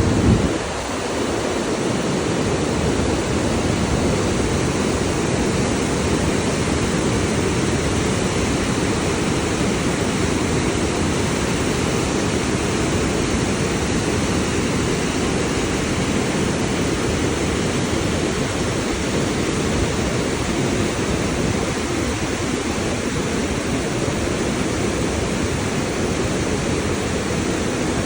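Spicket Falls and its rapids running high after heavy rain: a steady, loud rush of falling water with a deep low rumble. There is a brief thump right at the start.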